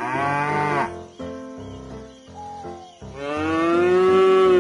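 Cow mooing twice: a short moo at the start and a longer, louder moo near the end, each falling in pitch as it ends, over light background music.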